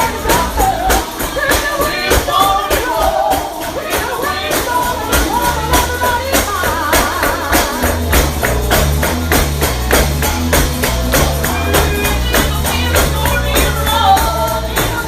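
Live gospel singing with a tambourine shaken and struck to a steady beat. A low bass line joins about halfway through.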